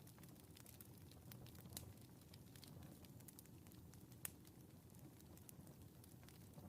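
Wood fire in a fireplace crackling faintly, with scattered small pops over a low rumble and one sharper pop about four seconds in.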